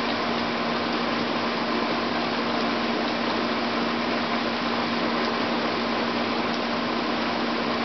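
Steady hiss of falling rain, even and unbroken, with a constant low hum underneath.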